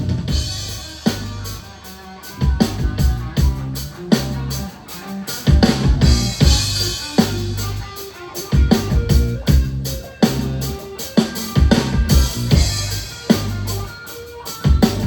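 Reggae band playing instrumentally: drum kit with bass drum and rimshots, bass and guitar in a steady rhythm, with no vocals.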